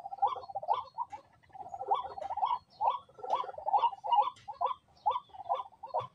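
Birds calling in a rapid run of short notes, several a second, with a brief lull about a second and a half in.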